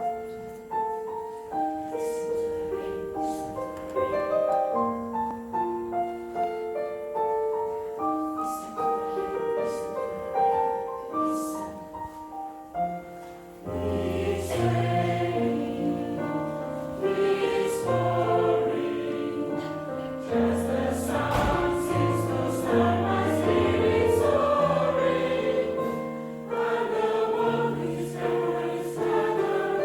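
Choir singing. The upper voices sing alone at first, then low voices join about halfway through and the sound grows fuller.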